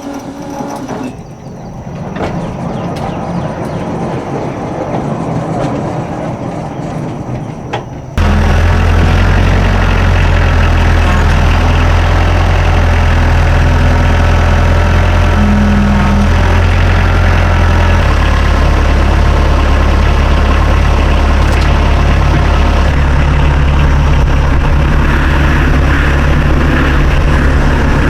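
Norwood HD38 portable sawmill's engine running. About eight seconds in, the sound jumps suddenly much louder into a steady, low engine drone that holds to the end.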